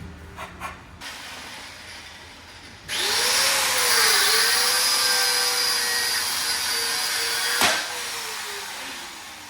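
Angle grinder spinning up about three seconds in and grinding on a seized rear-axle U-bolt, its motor pitch dipping as the disc bites into the steel, then slowly falling near the end, with one sharp knock.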